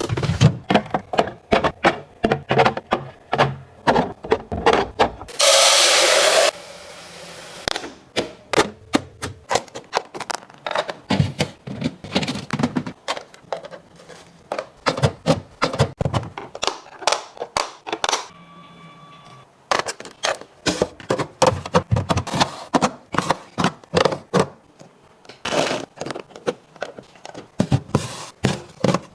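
Plastic storage containers, jars and food packages being handled and set down while a refrigerator is organized: a rapid, irregular string of clacks, taps and thunks, with a short burst of hissing noise about five seconds in.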